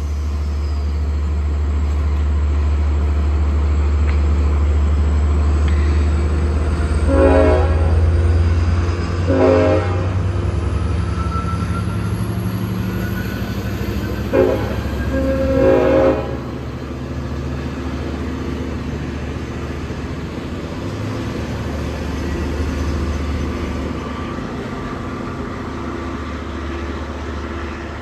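Long Island Rail Road diesel push-pull train with bi-level coaches running through the station. The diesel engine gives a steady low drone. The horn blows four times, long, long, short, long, the pattern of a grade-crossing warning.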